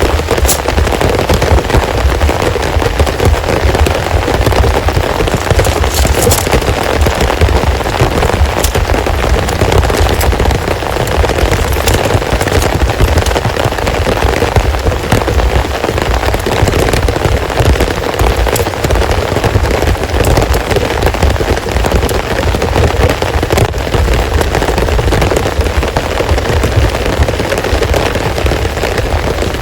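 Heavy rain falling steadily, with many sharp individual drop impacts crackling through it.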